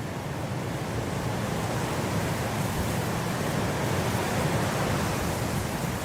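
Blizzard wind blowing as a steady rushing noise, swelling into a stronger gust over the first few seconds and easing slightly near the end.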